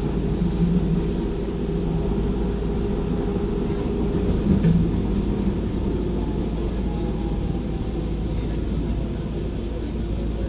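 Docklands Light Railway train running, heard from inside the car: a steady rumble of wheels on rail and running gear, with a few light clicks. A faint whine slides down in pitch in the second half as the train heads towards a station.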